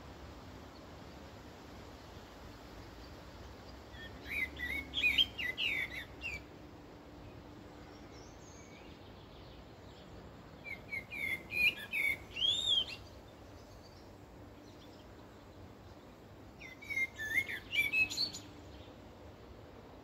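A songbird singing three short phrases of quick, rising and falling whistled notes, about six seconds apart, over a faint steady background hiss.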